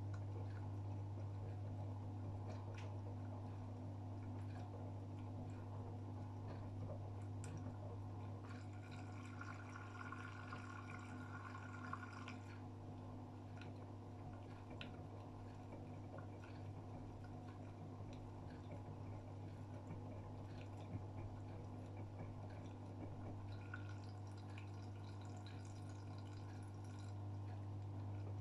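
AEG Öko-Lavamat 76910 washing machine mid-wash: water splashing and dripping inside the machine over a steady low hum, with scattered small clicks. A short spell of higher rushing sound rises about eight seconds in and stops about four seconds later.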